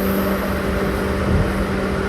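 Steady hum and rumble inside a Seibu New 2000 series commuter train car, with a constant low electrical tone over the noise.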